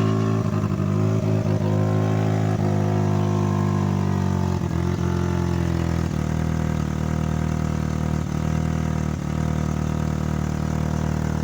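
Fiat Brava 1.2 16V four-cylinder petrol engine idling with no silencer fitted, just after a cold start. The idle eases slightly down over the first few seconds, then holds steady, and the engine runs well.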